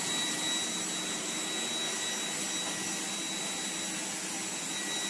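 iRobot Roomba 105 Combo robot vacuum running steadily, a constant rushing hum with a high, even motor whine.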